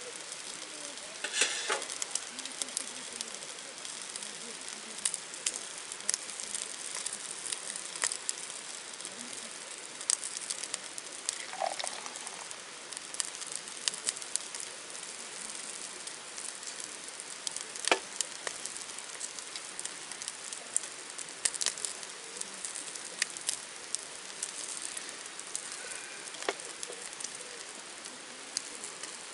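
Food frying in a pan: a steady sizzle with scattered pops and crackles.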